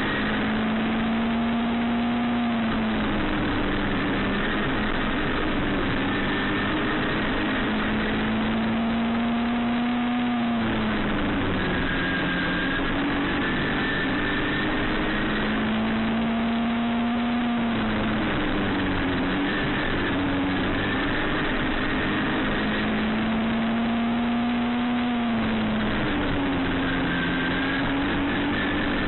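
Midget race car engine at racing speed. It climbs in pitch for several seconds on each straight, then drops sharply as the driver lifts for the turn, repeating about every seven to eight seconds.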